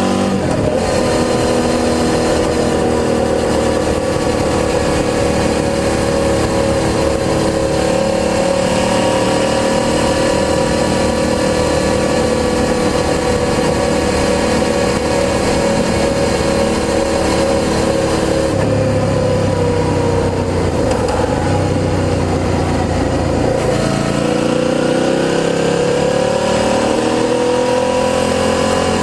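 Suzuki SV650's V-twin engine through a G&G aftermarket exhaust, heard on the move. It holds steady revs for most of the stretch, drops off about two-thirds through, then climbs again toward the end as the bike accelerates.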